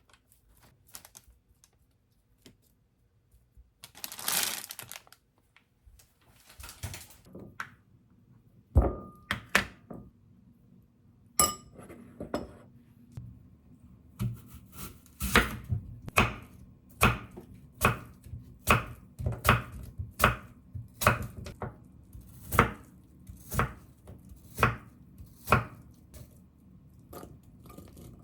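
Knife cutting food on a cutting board: a steady run of sharp knocks a little over one a second, after a few scattered knocks and a brief clatter earlier on.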